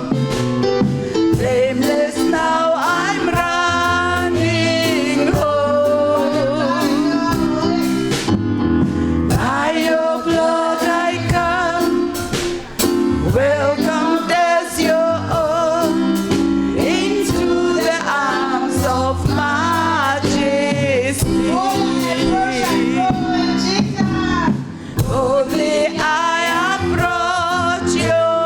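Live gospel music: singing with vocal runs over a band's steady chords and drum hits.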